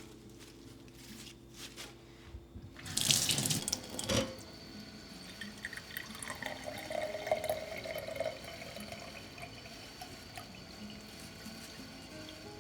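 Kitchen tap running into a sink: a loud rush of water starts about three seconds in, a knock follows about a second later, and the water then runs on more quietly.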